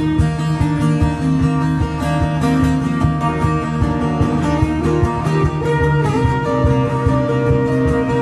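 Acoustic guitar strummed in a steady rhythm, an instrumental passage of a live song with no singing.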